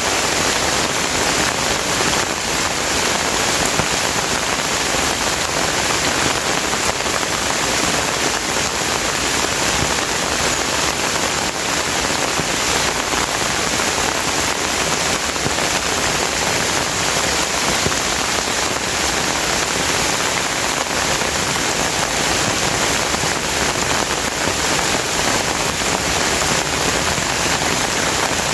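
Steady rain falling, an even, dense hiss of many drops that does not let up.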